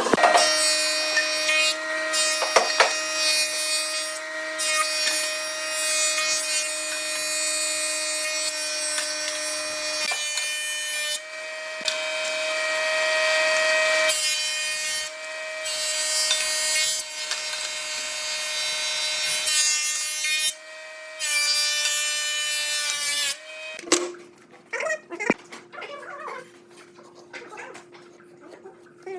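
Electric woodworking power tools running on wood: a steady motor whine with a loud hiss of the tool working the wood, in several stretches that stop and start abruptly. The last few seconds are quieter, with scattered clicks and a faint steady tone.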